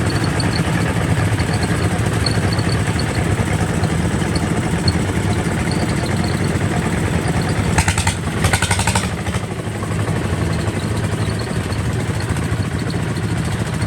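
Kubota RT 140 DI single-cylinder diesel engine running steadily. A brief, fast rattle cuts in a little past halfway.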